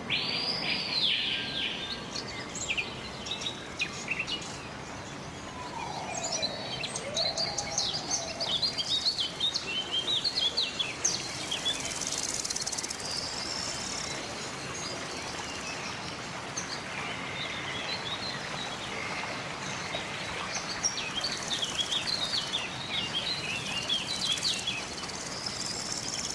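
Wild birds singing and chirping: many short, quick chirps and trills from several birds over a steady background hiss, with a lower gliding call about six seconds in.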